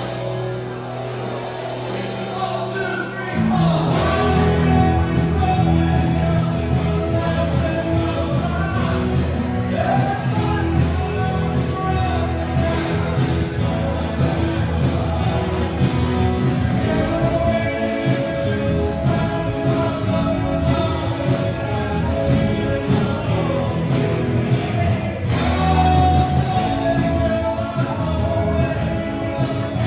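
Live rock band playing a song with singing; the full band, with bass and drums, comes in about three and a half seconds in.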